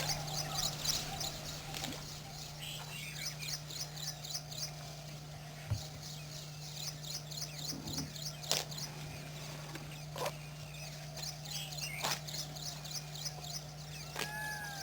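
Wild birds calling in repeated quick series of high-pitched notes, over a steady low hum, with a few sharp clicks.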